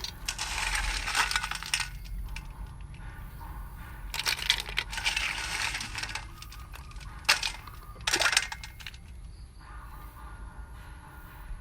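Snail shells rattling and grinding against each other and the pot as the water is drained off them, in several bursts with sharp clicks.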